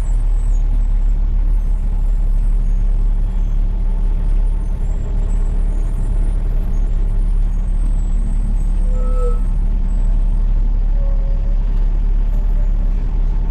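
Diesel engine of a loaded dump truck running steadily under way, a constant low drone.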